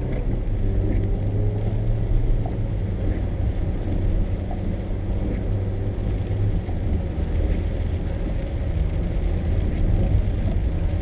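Steady low drone of a car's engine and tyres heard from inside the cabin, driving on a rain-wet road.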